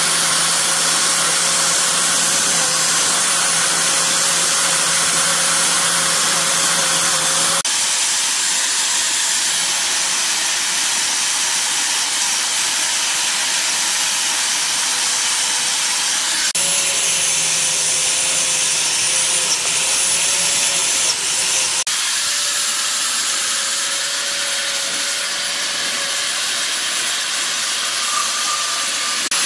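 A power tool running steadily with a hissing, whirring sound, changing abruptly three times.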